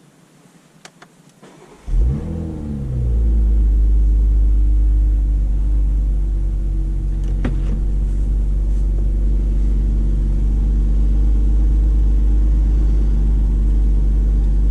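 A few faint clicks, then a 2019 BMW Z4 M40i's 3.0-litre turbocharged inline-six starts about two seconds in. It flares briefly in revs and drops back, then settles into a steady, loud idle.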